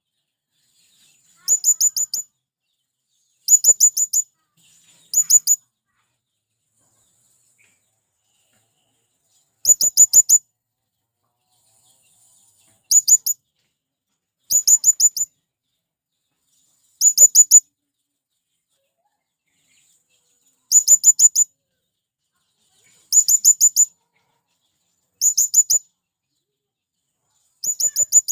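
Male blue-crowned hanging parrot (serindit) calling: short bursts of three to five very high, sharp ringing notes, repeated every two to three seconds with silence between.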